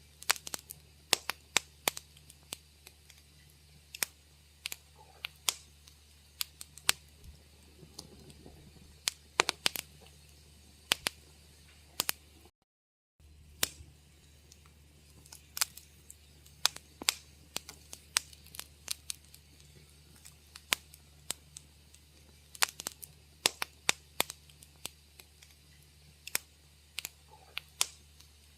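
Wood fire crackling in a fireplace: irregular sharp pops and snaps, a few a second, over a faint steady low hum. About halfway through the sound cuts out to total silence for half a second.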